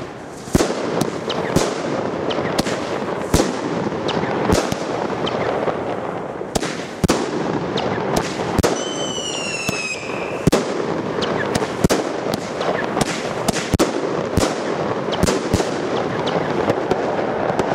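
Ignis Lily fireworks battery by Hirt & Co. firing: an irregular string of sharp bangs over constant crackling. A falling whistle sounds about nine seconds in.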